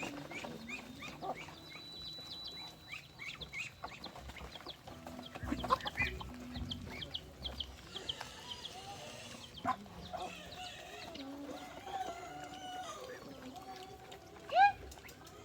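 Chickens clucking and calling, with many short repeated calls throughout and one louder call near the end.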